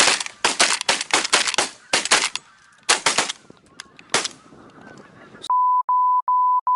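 Flock of geese honking close by in a dense run of loud calls that stops about four seconds in. Then a steady electronic beep, like a censor bleep, sounds several times in a row near the end.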